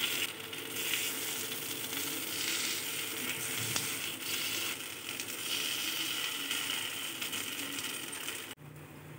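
Kuzhi paniyaram sizzling in oil in a paniyaram pan, with small clicks and scrapes as a metal skewer turns the balls over one at a time. The sizzle drops off abruptly near the end.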